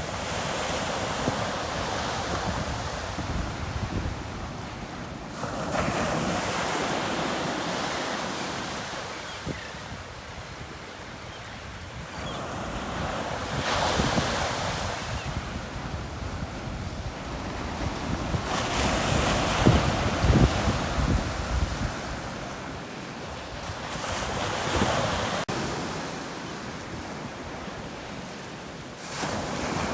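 Ocean surf breaking on the shore in slow surges, a wave about every five or six seconds, each one swelling and then washing away.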